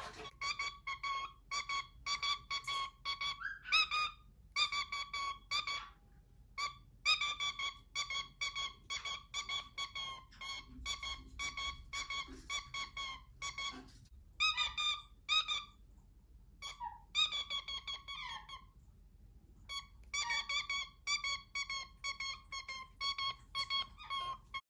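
Cockatiel whistling: runs of short, clear notes, mostly repeated on one pitch with a few sliding notes, broken by brief pauses.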